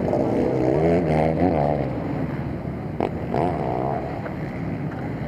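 Motocross bike engines running, with engine notes rising and falling in pitch as the throttle opens and closes, about a second in and again past the middle.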